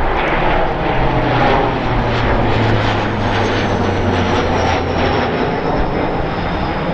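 Military fixed-wing aircraft flying over, a steady engine drone with a high whine that slowly falls in pitch as it goes by.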